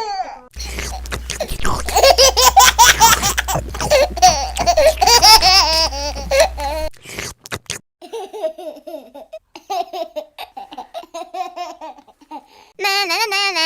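A baby laughing: a long run of giggling lasting several seconds, then scattered shorter giggles, and another burst of laughter near the end.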